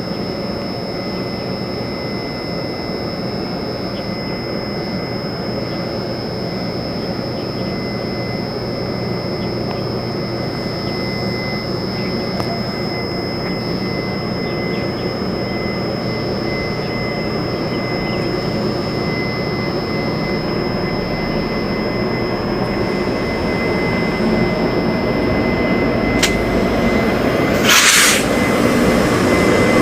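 Train approaching through a station, its low rumble slowly growing louder, with a short sharp hiss about two seconds before the end.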